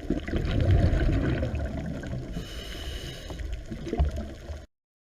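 Water splashing and gurgling over a low rumble, with a few sharp clicks; it cuts off suddenly near the end.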